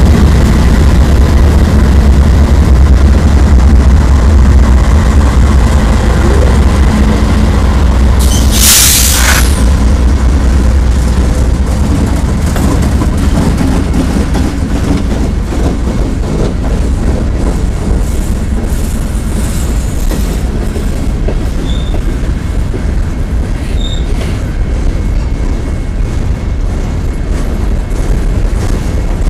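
A Norfolk Southern freight train passing close by: the deep rumble of its diesel locomotives dominates for the first several seconds, then eases into the steady rolling of hopper cars' steel wheels on the rail, with faint clicks. A brief loud hiss comes about nine seconds in.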